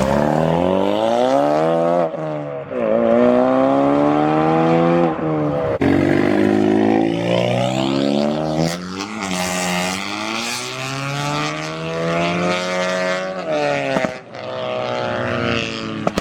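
Modified car's engine under hard acceleration, pulling away through the gears. The pitch climbs in each gear and drops back at each upshift, several times over, with a sharp pop near the end.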